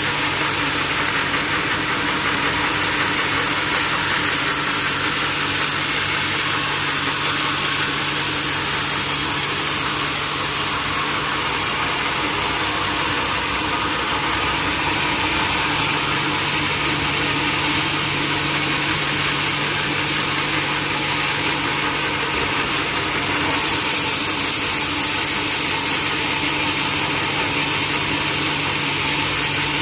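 Sawmill machinery running steadily: a constant motor hum under an even, dense noise, with no change in pitch.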